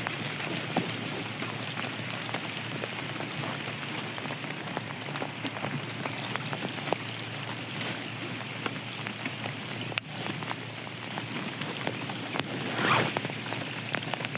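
Steady rain, with many small drops ticking sharply close to the microphone. A brief louder rush comes about 13 seconds in.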